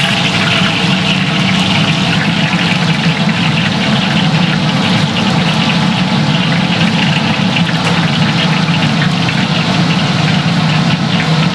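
Steady mechanical hum with a rushing noise, like a motor or fan running, with faint light ticks over it.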